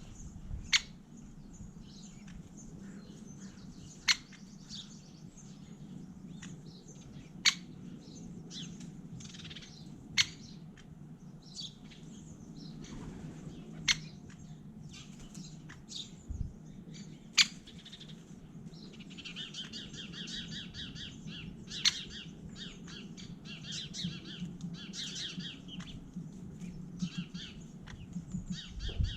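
Birds calling, with a sharp single 'kik' note every three to four seconds, typical of great spotted woodpeckers. From about two-thirds of the way through, a busier stretch of rapid high twittering joins in.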